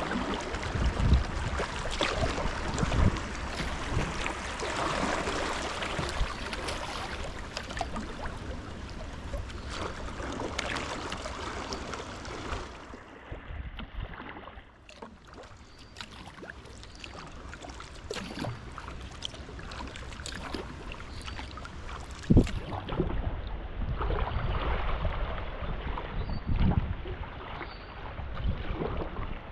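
A kayak being paddled on a river: water splashing and washing around the paddle and hull, with wind rumbling on the microphone. There are scattered knocks, the sharpest about 22 seconds in.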